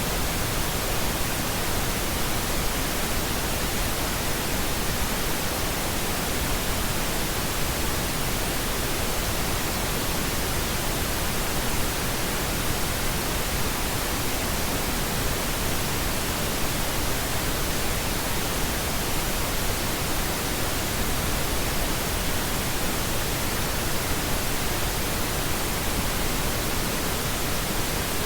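Steady pink noise: an even, unchanging hiss spread across all pitches, with no other sounds.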